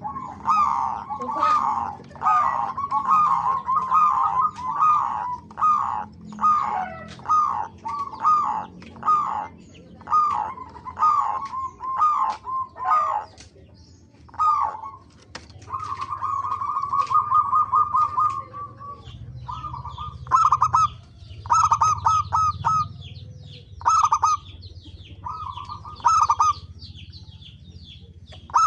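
Zebra doves (perkutut) cooing in quick runs of short staccato notes. About halfway through comes one longer rolling trill, followed by short phrases in separate bursts. Fainter high chirps from another small bird sound in the second half.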